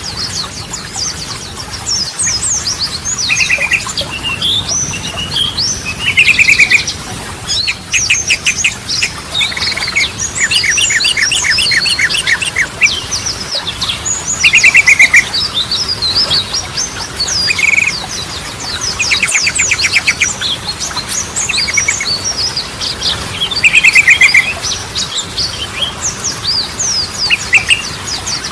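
Yellow-vented bulbul (trucukan) singing: a busy run of sharp, quick chirps mixed with short rattling trills of fast repeated notes, coming again every second or two.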